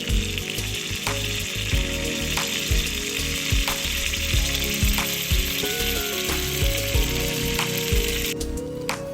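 Food frying with a steady sizzle that cuts off suddenly near the end, over light background music.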